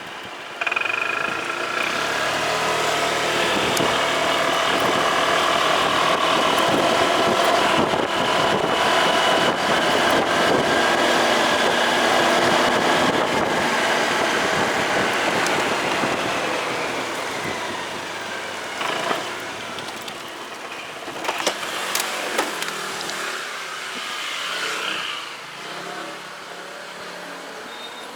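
Motorcycle engine pulling away about a second in and running steadily at speed, then easing off in the second half, with a few sharp knocks near the end.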